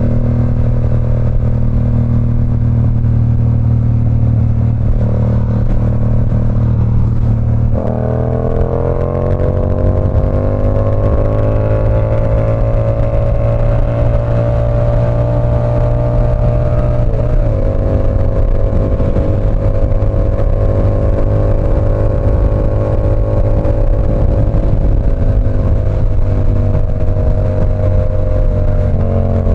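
Yamaha R7's 689 cc parallel-twin engine running through an SC Project CR-T exhaust while riding. The note holds steady, then climbs gradually from about eight seconds in as the bike accelerates. It has a brief break a little past halfway, then holds steady again.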